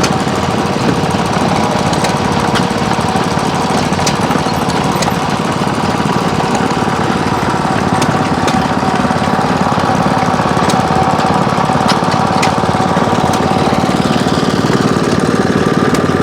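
Small gasoline engine running steadily at a fast, even beat, driving an old-time engine-powered washing machine.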